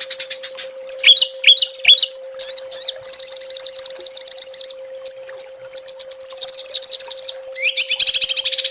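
Small songbird calling in fast, high-pitched 'tembakan' bursts: rapid runs of repeated sharp notes with a few slurred chirps and short pauses, ending in a dense trill. A faint steady hum runs underneath.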